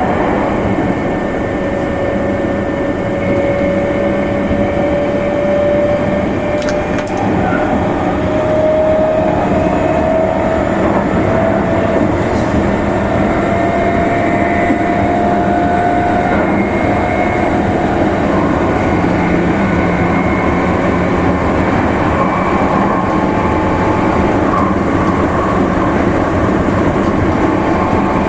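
Meitetsu limited express train running on the line: a steady rumble of wheels on rail, with a motor whine that slowly climbs in pitch through the first half as the train gathers speed.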